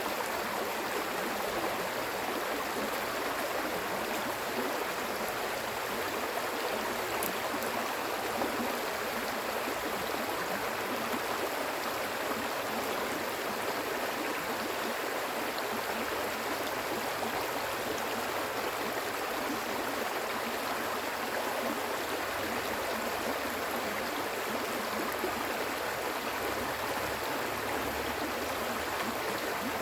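Stream water flowing, a steady, unbroken rush of water.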